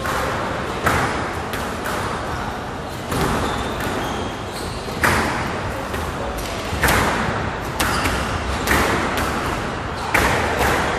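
Squash rally: the ball cracking off rackets and the court walls, sharp hits about every one to two seconds, each ringing briefly in the enclosed court.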